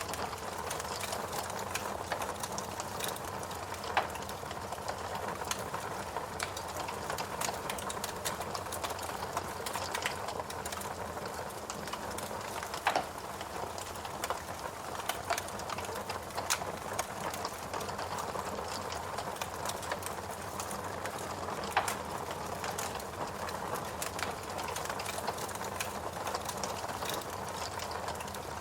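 Wood fire crackling in a fireplace: irregular sharp pops and snaps over a steady soft rushing bed of ambience.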